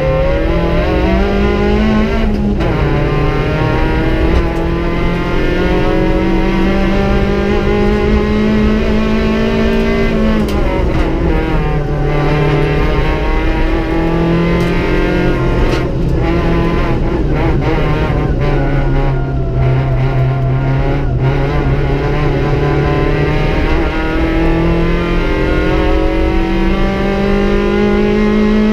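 Opel Corsa B rally car's Z14XEP 1.4-litre sixteen-valve four-cylinder engine at high revs, heard from inside the cabin. Its pitch climbs under hard acceleration and drops back several times as the driver shifts gear and lifts for corners.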